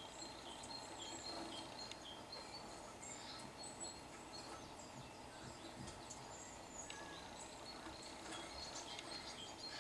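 Faint small-bird chirps and calls, many short overlapping notes, from a bird video playing through a television's speakers.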